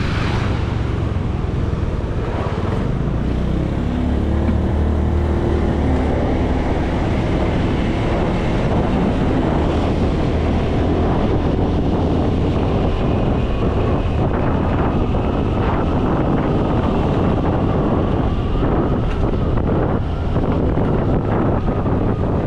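Motorcycle taxi riding along, its engine running steadily under heavy wind noise on the microphone. The engine pitch shifts a few seconds in as it changes speed.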